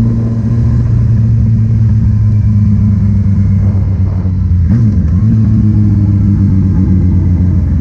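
Vehicle engine running steadily at a constant pitch, with a brief wobble in pitch about two-thirds of the way through.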